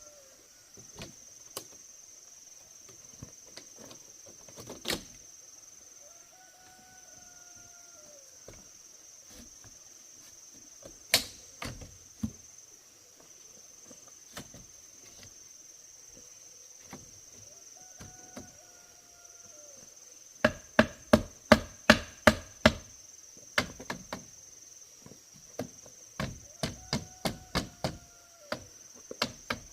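Chopping strikes on wood, scattered at first, then two quick runs at about three blows a second in the second half. A steady high insect drone runs underneath.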